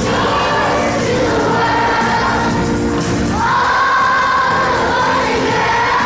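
Children's choir singing a Christmas song with instrumental accompaniment, holding long notes.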